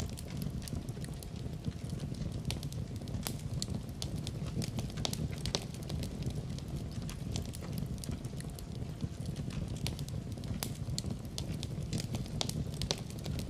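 Wood fire burning in a fireplace, with many sharp, irregular crackles and pops over a steady low rumble of the flames.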